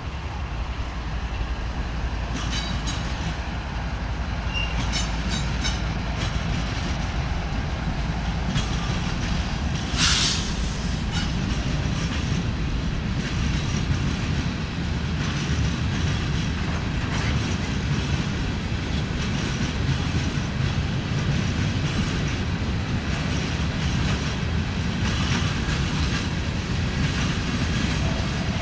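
A freight train of empty rock hopper cars rolling past, a steady rumble with the clatter of wheels over the rail. Thin high wheel squeals come and go in the first few seconds, and there is a short sharp hiss about ten seconds in.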